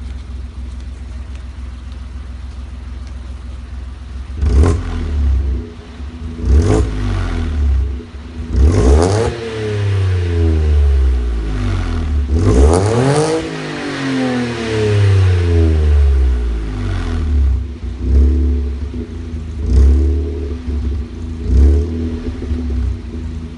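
2016 Toyota Aygo's three-cylinder engine through a decat, 60 mm free-flow exhaust, idling for a few seconds and then revved. It is blipped twice, then taken up and back down twice in longer sweeps, then given three more short blips near the end.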